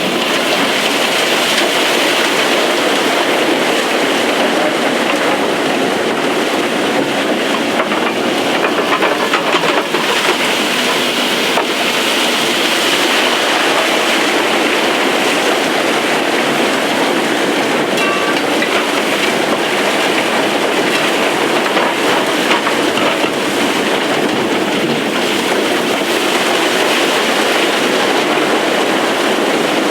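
Steady loud roar of underground opal-mining machinery running: the dirt-sucking blower and digging gear going at full revs, with a few faint clicks and knocks in it.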